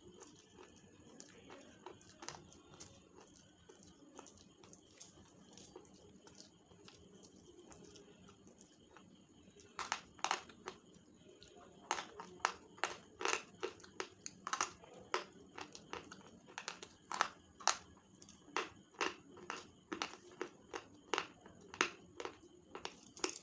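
Slate pencils being bitten and chewed: dry, chalky crunches. Faint at first, then from about ten seconds in a steady run of sharp, loud crunches, roughly two a second.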